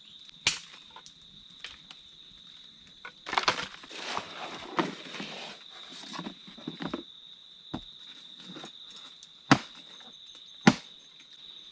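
Steady high-pitched drone of insects, with a stretch of rustling or crackling a few seconds in. There are three sharp knocks, the two loudest close together near the end.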